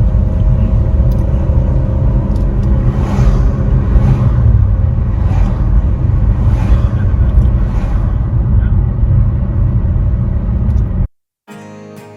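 Loud, steady rumble of motorcycles under way, cutting off abruptly about eleven seconds in. Quiet acoustic guitar music starts just after.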